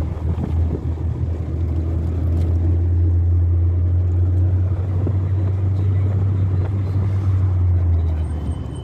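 Steady low rumble of a motor vehicle running, growing louder from about two seconds in and easing off near the end.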